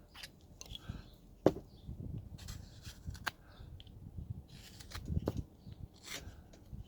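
Carving knife cutting and prying chips out of a wood carving: scattered small clicks and scrapes, with a sharp snap about a second and a half in.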